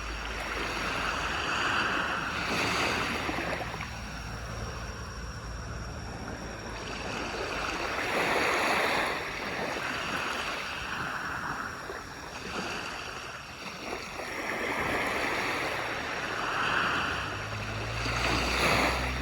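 Sea waves breaking and washing up a shore, the surf swelling and falling back every few seconds. A low steady hum comes in near the end.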